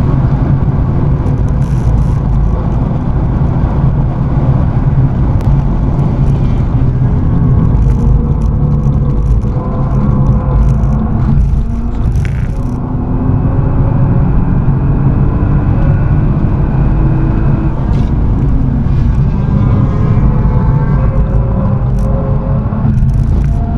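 Volkswagen Golf IV R32's 3.2-litre VR6 engine running at speed on a track lap, heard from inside the cabin over tyre and wind noise. About halfway through, its pitch climbs steadily for several seconds, breaks off briefly, then climbs again.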